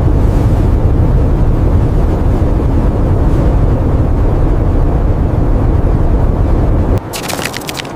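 Strong blizzard wind, a loud steady low rumbling. It cuts off abruptly about seven seconds in and gives way to a quieter, rapid crackling.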